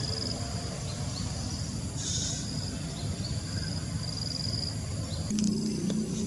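A bird gives a short, harsh, rapid chattering call about two seconds in, among short high whistled notes that repeat throughout. About five seconds in, a click is followed by a low, steady motor hum.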